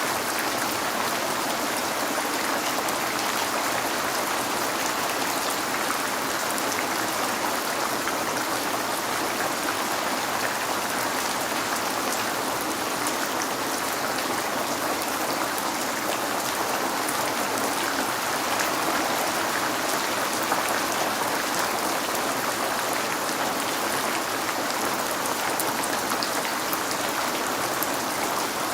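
Steady rain falling, a continuous even hiss of water with fine scattered drop ticks, as of rain on a window.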